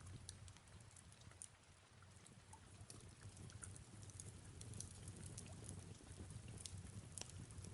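Faint fireplace crackling, with scattered small pops, over a low steady rumble and a soft even hiss of rain.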